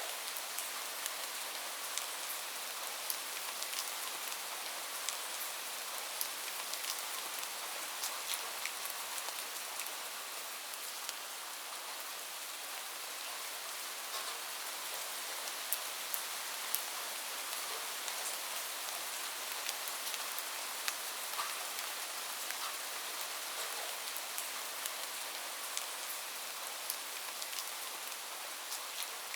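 Steady rain falling, an even hiss dotted with the sharp ticks of individual drops hitting a hard surface.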